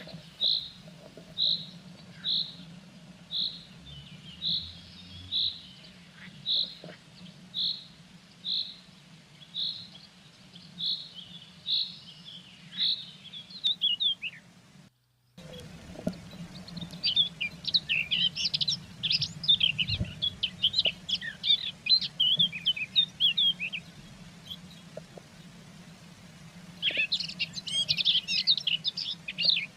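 Blue tit calls: a thin, high note repeated about once a second for roughly the first half, then after a brief gap, bursts of rapid, high twittering, loudest near the end. A faint steady low hum sits underneath.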